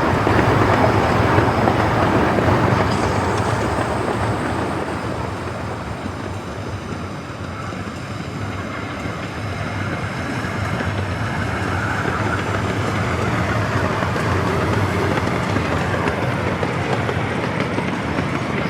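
A 16-inch gauge grand scale steam train running on the track: a steady rolling rumble that eases off about six seconds in, then builds again.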